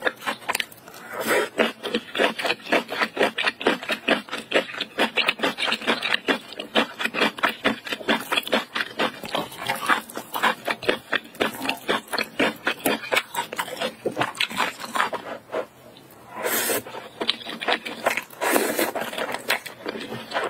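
Close-miked chewing of spicy octopus and ramen noodles: rapid, wet smacking and clicking mouth sounds, with a few louder, noisier bursts near the end.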